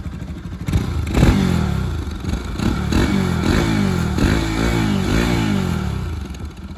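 Bajaj Pulsar RS 200's 200 cc single-cylinder, four-valve, triple-spark engine running, blipped repeatedly so its pitch rises and falls again and again from about a second in. It settles back toward idle near the end.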